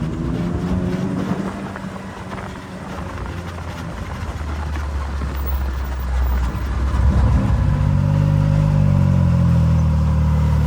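A vehicle's engine running while driving, easing off for a moment and then pulling harder and louder about seven seconds in.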